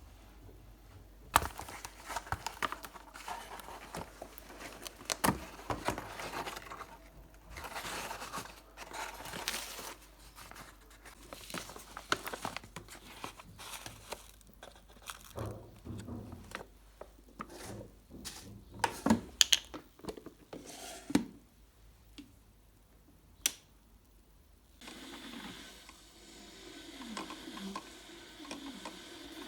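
Close handling noise: irregular rustling and crinkling with scattered sharp taps and clicks, as objects such as paper or packaging are moved about. About 25 seconds in it gives way to a steadier, quieter background.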